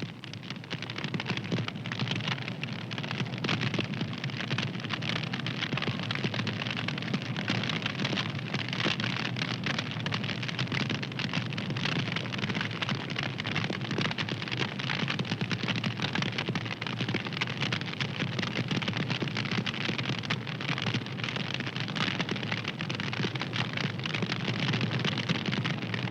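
Fire crackling: a steady, dense stream of small pops and snaps.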